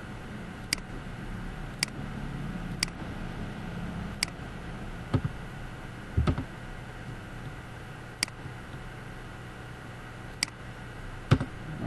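Irregular single clicks from working a computer's mouse and keys, about ten spread through, over a steady low hum.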